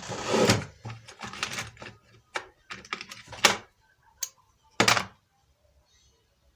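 Hard objects being handled: a scraping noise at the start, then a string of sharp knocks and clicks, the last loud pair about five seconds in.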